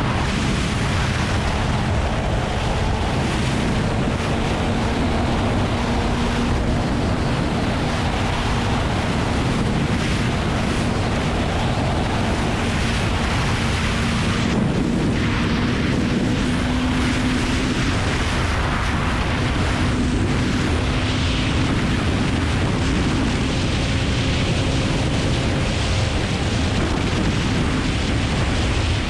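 Heavy wind noise rushing over the GoPro microphone at riding speed, with the Kawasaki ZX-9R's inline-four engine note faintly underneath, held at a fairly steady pitch.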